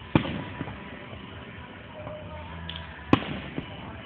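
Aerial firework shells bursting: two sharp bangs about three seconds apart, each followed by a fainter second bang about half a second later.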